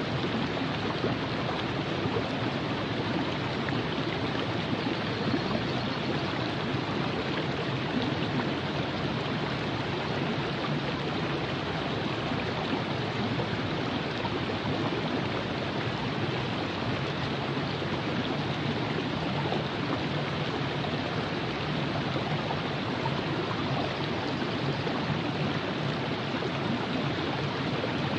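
River water flowing steadily over rocks, a continuous rushing and babbling with no breaks.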